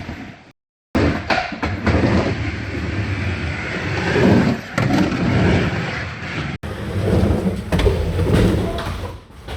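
Skateboard wheels rolling with a steady rumble, with a few sharp clacks of the board. It is broken by a short dead-silent gap near the start and an abrupt cut about six and a half seconds in.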